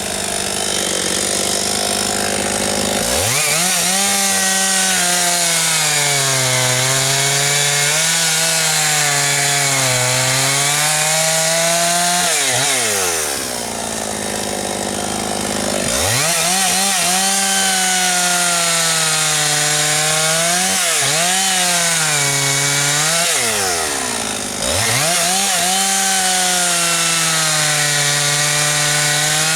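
Husqvarna 272XP two-stroke chainsaw cutting through a log at full throttle, its pitch wavering under load. Twice, near the middle and again later, the revs drop briefly and then climb back up.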